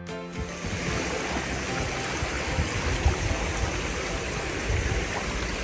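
Moorland stream rushing and babbling over rocks, a steady wash of water noise, with a brief low bump about three seconds in.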